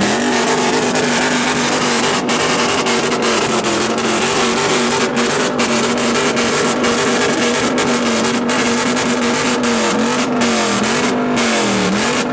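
Car engine held at high revs on the rev limiter, the exhaust note steady but cutting out in many brief gaps. Near the end the revs drop and climb back three or four times.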